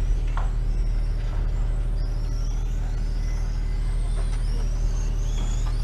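Racing motorcycle engines revving on the circuit, their high whine rising and falling in pitch as the bikes accelerate and shift, over a steady low drone.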